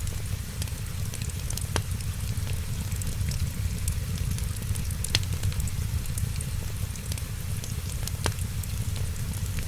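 Wood fire crackling, with three sharp pops spread through it and fainter ticks between, over a steady low rumble and hiss.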